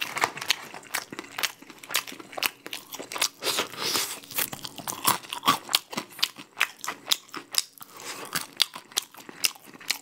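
Close-miked crunching and chewing of crispy-coated Goobne Honey Curry Basasak chicken: a dense run of irregular crackly crunches, many a second.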